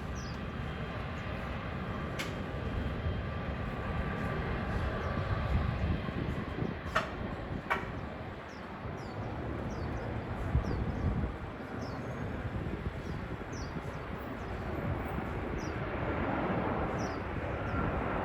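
Steady low rumble of jet aircraft engines at an airport, swelling near the end. Short high falling chirps repeat through it, and there are a few sharp clicks.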